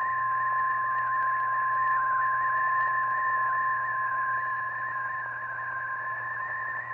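NOAA Weather Radio's 1050 Hz warning alarm tone: one steady, unbroken beep held throughout, over radio hiss and a low hum, signalling that a severe thunderstorm warning is about to be read.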